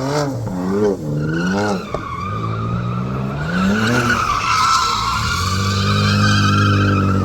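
BMW M4's turbocharged straight-six revving up and down on and off the throttle, then held at high revs. From about a second and a half in, the tyres squeal continuously as the car slides in a drift.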